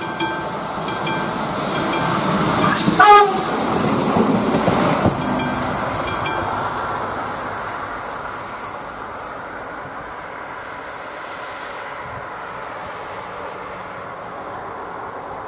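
Level-crossing bell striking at first, then a diesel railcar passes close by. Its horn drops in pitch as it goes past about three seconds in, the wheels click over the rail joints, and the sound fades as it pulls away.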